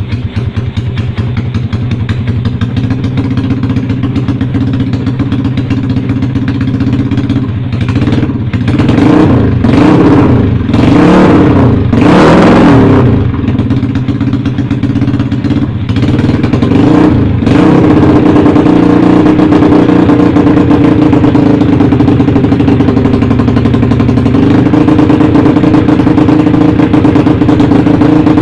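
Yamaha Jupiter motorcycle's bored-up four-stroke single-cylinder engine, fitted with a CLD Monster aftermarket exhaust, idling while it warms up. About eight seconds in it is revved in a run of quick throttle blips, then settles back to a steady, louder idle.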